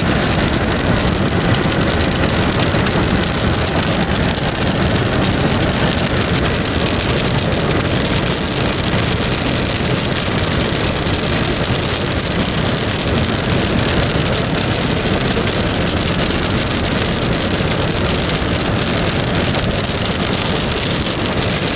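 Steady rain and road noise inside a moving car.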